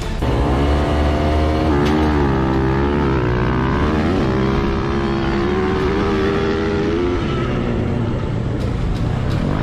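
Dirt-bike engine running, its pitch rising and falling in a few revs about two seconds in, then holding steadier.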